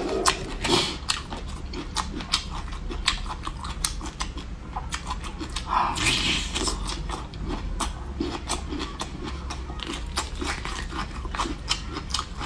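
Close-miked chewing and biting of a cooked bamboo shoot: wet mouth sounds with many small clicks, and a louder bite about six seconds in.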